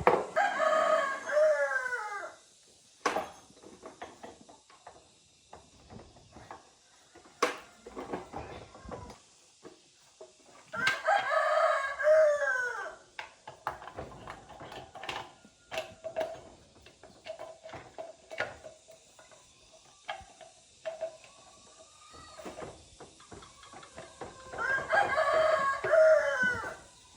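Rooster crowing three times, each crow about two seconds long and falling in pitch at the end, roughly twelve seconds apart. Sharp clicks and knocks come in between.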